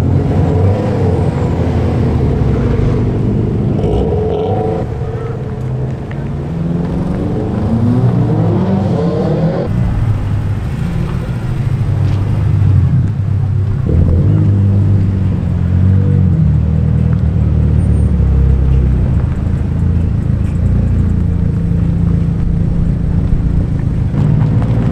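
Japanese performance cars' engines revving and pulling away one after another. About seven seconds in, one engine climbs steadily in pitch as it accelerates, then breaks off abruptly; steady engine running follows.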